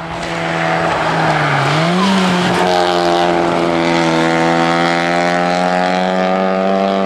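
A rally car's engine running hard at high revs. The revs dip briefly about a second and a half in, then climb back and hold high and steady.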